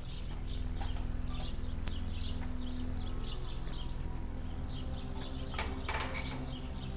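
Small birds chirping in quick, repeated high notes over a steady low hum, with a couple of short clatters near the end.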